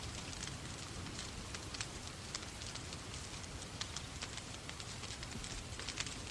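Fireplace fire crackling over a steady rain: frequent sharp, irregular crackles above an even hiss and a low rumble.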